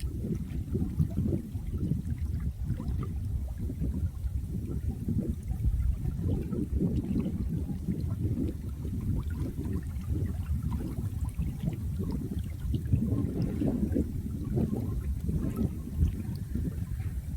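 Water running and gurgling steadily, a low, bubbling flow like a stream.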